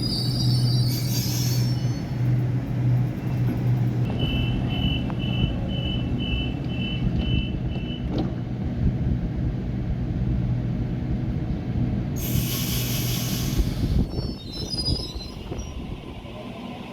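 A train at a station running with a steady low hum, and brief high wheel squeals near the start and again late on. A run of evenly spaced high beeps, about two a second, sounds for about four seconds a little way in. A loud air hiss lasts about two seconds past the middle.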